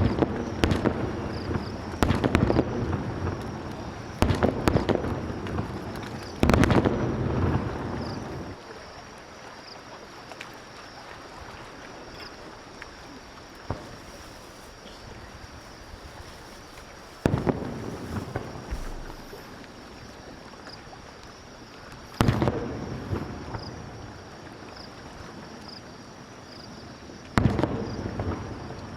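Fireworks shells bursting, each a sharp boom trailing off in an echoing rumble. A quick run of booms comes in the first eight seconds, then single booms follow about every five seconds.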